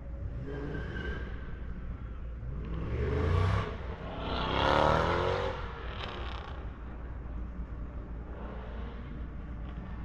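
City street traffic: two vehicles pass close by, one after the other, each swelling and fading over a steady low traffic rumble.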